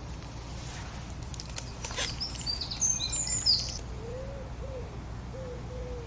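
Wild songbird singing a quick burst of high, twittering chirps a couple of seconds in. A run of short, low, arched call notes follows, over a steady low background hum.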